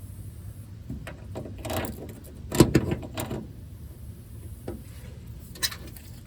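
Metal clicks and clanks of vise grips being clamped onto a stripped brake line nut and worked against it, in a scatter of sharp knocks with the loudest cluster about two and a half to three and a half seconds in.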